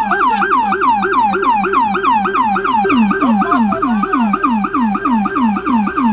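Loud police car siren in its fast yelp mode: a pitched tone sweeping downward over and over, about four times a second.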